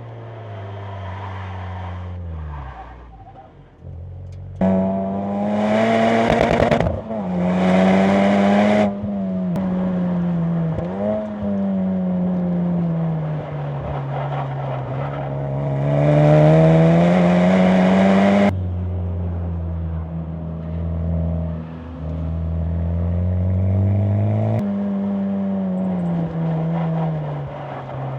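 2020 Honda Civic Type R's turbocharged 2.0-litre four-cylinder through an HKS Legamax exhaust, driven hard on track. The engine note climbs and falls again and again as the car accelerates and brakes, with sudden jumps in pitch a few times at gear changes.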